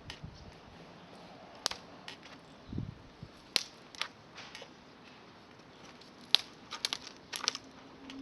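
Campfire wood crackling and popping: sharp, irregular pops, sparse at first and coming in a quick cluster near the end.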